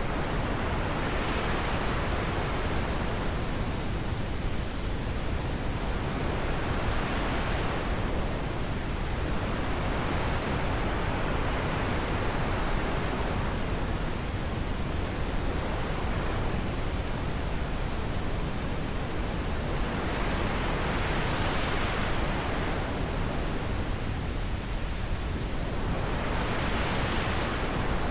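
Wind blowing steadily, swelling and easing in slow gusts every few seconds.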